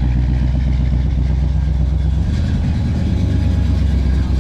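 Car engine idling with a steady, deep low rumble, its pitch shifting slightly a couple of seconds in.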